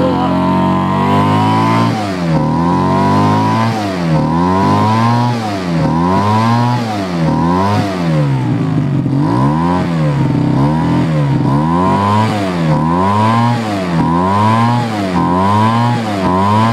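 Small blower engine running on Liquid Wrench penetrating oil, surging up and down in revs over and over, about one surge a second.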